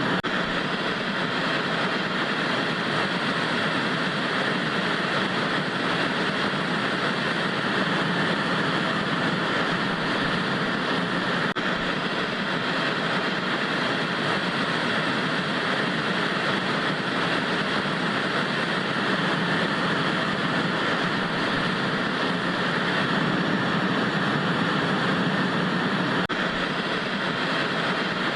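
Steady hiss of analogue TV static, an even white noise with no changes.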